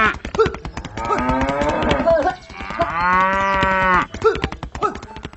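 Cattle mooing: two long calls, about a second in and about three seconds in, over a fast, steady clicking rattle.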